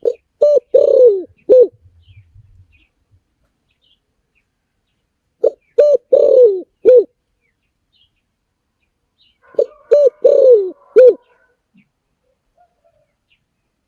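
Spotted dove cooing: three call phrases about four to five seconds apart, each of four short coos with the third drawn out and falling in pitch.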